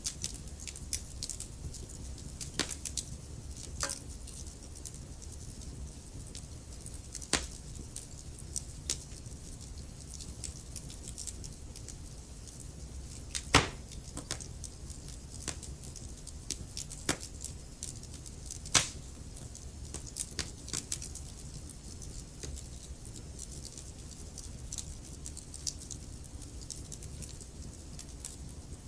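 Wood fire burning in a fireplace: irregular crackles and pops of burning logs over a low steady rush of flame. A few sharper pops stand out, the loudest about halfway through and again about five seconds later.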